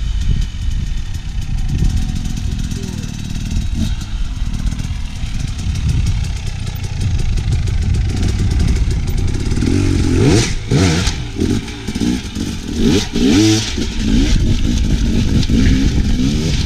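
Dirt bike engine running at low throttle, with its pitch rising and falling in repeated throttle blips from about ten seconds in, and a few clattering knocks.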